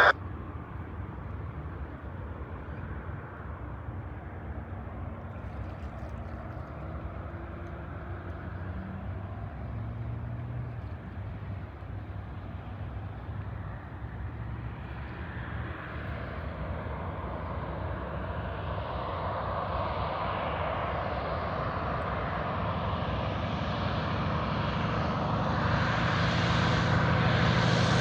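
Propeller floatplane's piston engine droning steadily, growing louder over the second half as the plane approaches.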